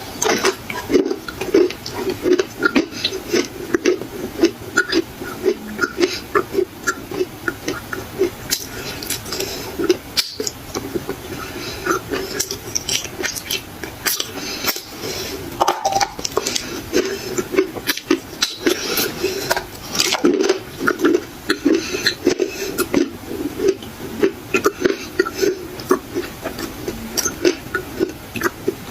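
A person biting and chewing dry black clay, with dense, irregular crunching and crackling throughout.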